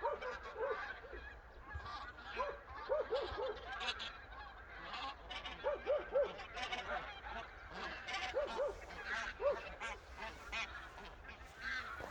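A flock of geese honking, many birds calling at once: short arched honks come in quick runs of two or three over a continuous din of overlapping calls.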